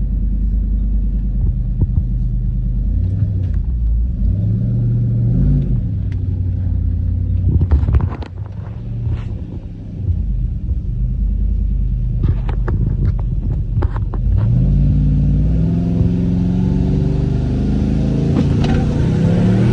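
Modified truck engine running loud through its exhaust, idling with several short revs where the pitch sweeps up, and a brief drop in level about halfway through. A few sharp knocks or clicks come in the middle.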